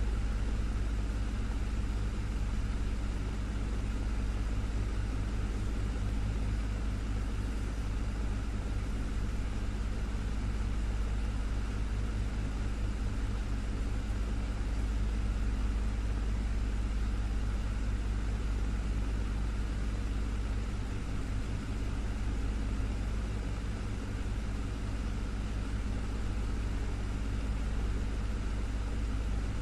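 Desktop fan running steadily: a constant low motor hum under an even rush of moving air.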